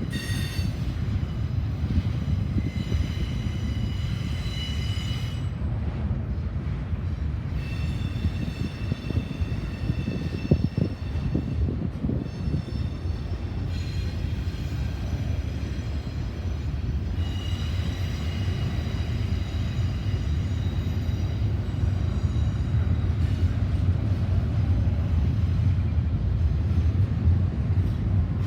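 Freight train cars rolling past with a steady low rumble of wheels on rail, and high-pitched wheel squeals that come and go in stretches of several seconds.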